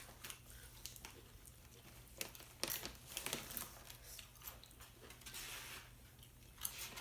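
Chips being bitten and chewed with salsa, a scatter of short crisp crunches, thickest about three seconds in.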